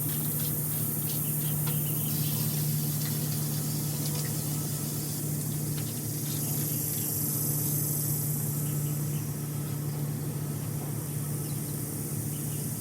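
A motor running at a steady speed with an even hum, with a few faint ticks and crackles over the first couple of seconds.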